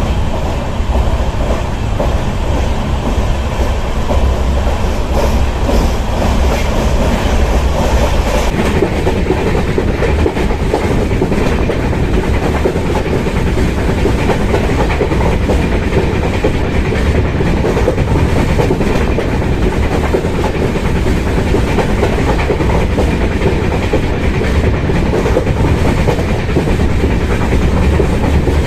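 Passenger train running at speed, heard from inside a coach of the Vaigai Superfast Express: a steady rumble of wheels on the track.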